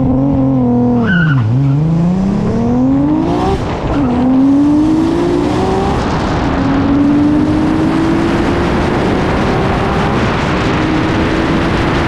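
Drag car's engine held at high revs, then accelerating hard down the strip: its pitch climbs through each gear and drops at each of four gear changes, with each climb slower than the one before.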